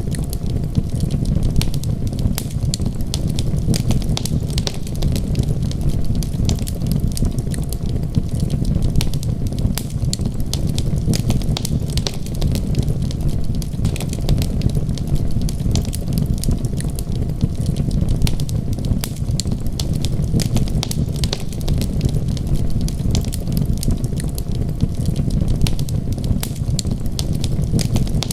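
Wood fire crackling, with many quick sharp pops over a steady low rumble.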